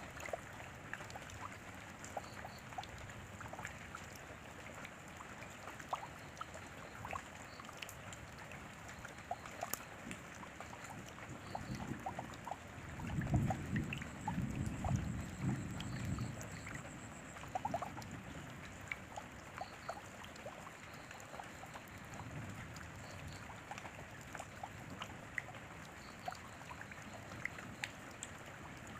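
Steady rain with scattered close drops ticking. A low rumble swells for a few seconds near the middle, the loudest part.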